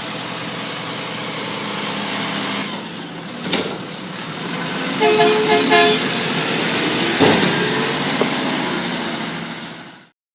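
Garbage truck engine running steadily, with a quick run of short horn toots about five seconds in and a couple of clanks; the sound fades out near the end.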